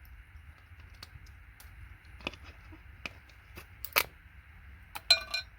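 Scattered sharp clicks and taps of hand tools working on scrap circuit boards, the loudest about four seconds in. Just after five seconds, a short metallic clink rings briefly, like a metal part striking metal.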